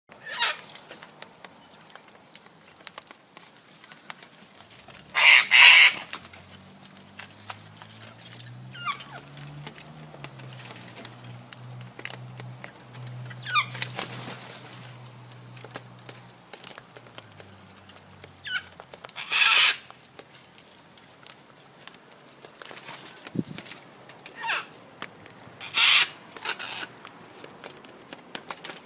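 Yellow-crested cockatoo giving harsh screeches about a second long, the loudest about five, nineteen and twenty-six seconds in, with a few shorter falling squawks. Many small sharp clicks and cracks run between the calls as it eats.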